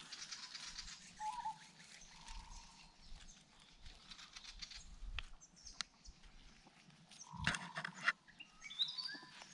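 Small birds chirping and whistling here and there, with a cluster of short falling whistles near the end. Under them, scattered crackles and rustles of footsteps and movement on dry leaf litter and mud, with one louder rustle a little after the middle.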